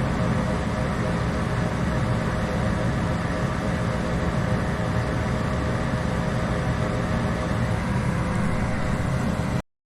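Goodman furnace running with its blower on, a steady hum and rush of air, working again now that the limit switch plugs have been reseated. It cuts off suddenly near the end.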